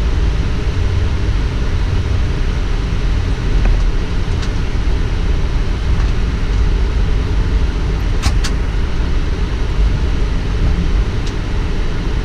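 Steady low rumble on a Boeing 777 flight deck during taxi, with two quick clicks close together about eight seconds in.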